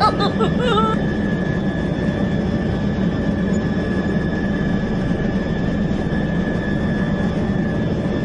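A toy helicopter's small electric motor running steadily, spinning the plastic rotor. It makes an even whirring drone with a faint high whine on top.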